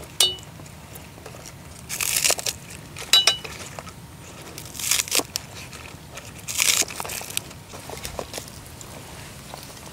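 Knife cutting a bunch of green onions into lengths on a cutting board, in five short runs of crisp cuts a second or two apart.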